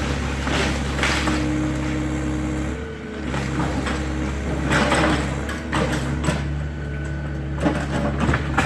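Excavator's diesel engine running steadily, its note dipping briefly about three seconds in. Over it come several bursts of crunching and scraping as wooden demolition debris is pushed around.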